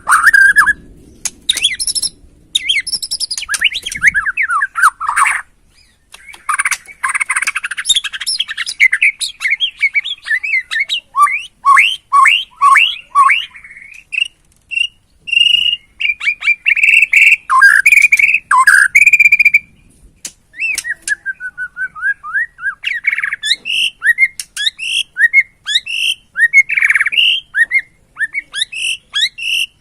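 White-rumped shama of the Borneo race (murai batu Borneo) singing a long, varied song of clear whistles and rapid runs of short notes, broken by a few short pauses.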